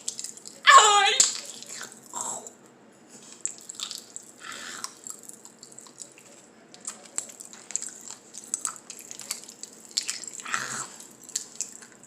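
Popping candy crackling in a person's mouth: scattered small pops and clicks. About a second in there is a short high vocal cry that falls in pitch.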